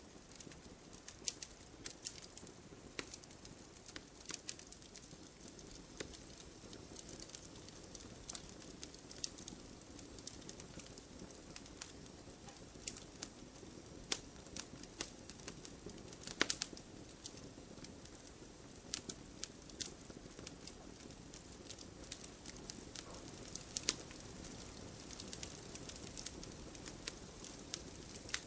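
Wood campfire crackling: irregular sharp pops and snaps, a few a second, over a soft steady rush of burning.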